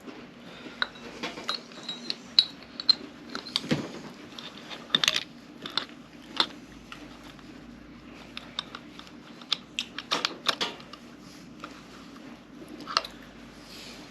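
Light metallic clicks and taps, irregular, as small engine parts (pistons and gudgeon pins) are handled and fitted, over a faint steady hum.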